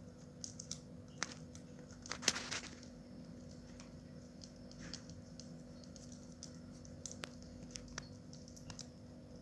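Close handling noises: scattered light clicks and taps, with a brief rustle about two seconds in, over a steady low electrical hum.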